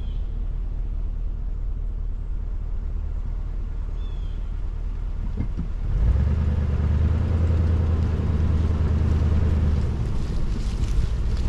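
Low rumble of a vehicle driving, engine and road noise, which grows louder from about six seconds in and eases back near ten seconds.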